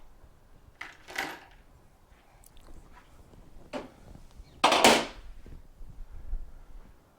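Tools and metal parts clattering during motorcycle disassembly: a few short rattles, the loudest about five seconds in.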